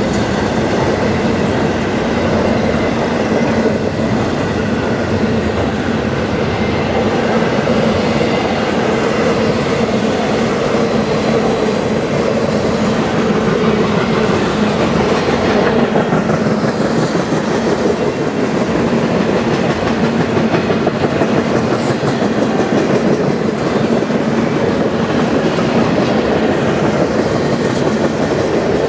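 Double-stack container cars and empty well cars of a freight train rolling past, a loud, steady noise of steel wheels running on the rails.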